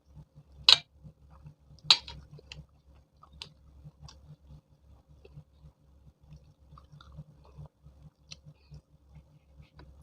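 Close-miked chewing of chole bhature, with wet mouth clicks and smacks over a steady chewing rhythm; two loud sharp smacks come about a second and two seconds in.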